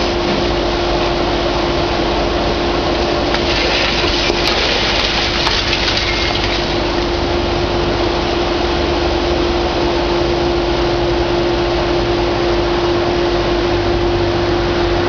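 Heavy demolition excavator running, its diesel engine steady under a constant whine. About three to six seconds in there is a spell of louder, harsher noise, like debris being worked.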